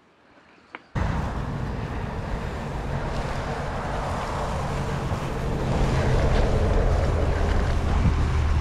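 Heavy wind buffeting on the microphone of a moving mountain bike rider's camera. It cuts in suddenly about a second in and grows louder towards the end.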